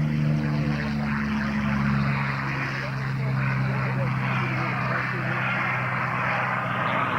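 Curtiss P-40 fighter's piston engine running as the plane goes by, a steady drone that drops in pitch about two seconds in.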